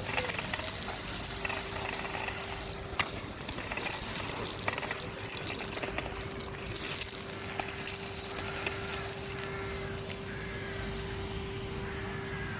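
Henry HVR200-22 cylinder vacuum cleaner running with a steady motor hum and suction hiss, sucking up street grit that rattles and clicks through the hose.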